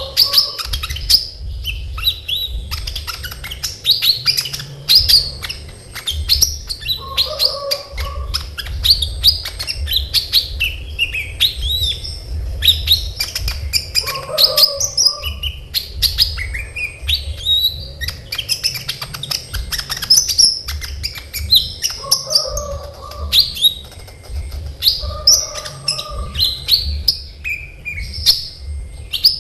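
A kolibri ninja sunbird singing in full voice: a fast, unbroken string of high, sharp chirps and short trills packed closely together. A lower-pitched call recurs about every seven seconds, over a steady low hum.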